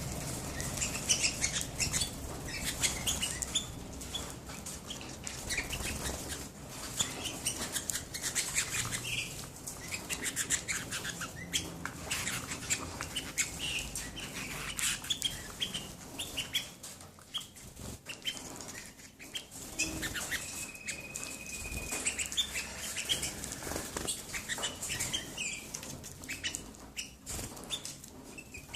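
Canaries chirping and twittering with many short notes amid wing flutters and rustling, with one steady held whistle note about twenty seconds in.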